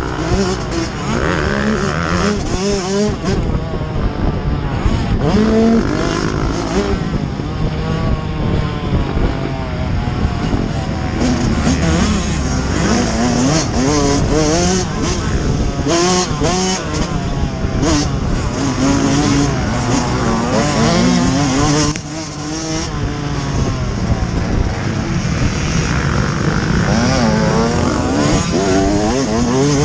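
Yamaha YZ125's single-cylinder two-stroke engine at racing speed, its revs climbing and falling again and again through the gears, with a short let-off about two-thirds of the way through. Wind rushes over the helmet-mounted microphone throughout.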